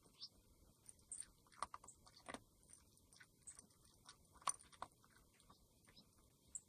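Cat chewing dry food: faint, irregular crunches and clicks.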